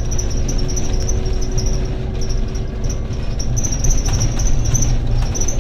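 Interior of a Scania N280UD double-decker bus on the move: steady low diesel and road rumble with a constant hum, and a high-pitched chirping squeak that keeps repeating.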